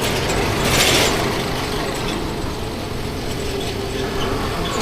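50cc scooter engine running steadily under way, mixed with wind and road noise, with a brief hiss swelling about a second in.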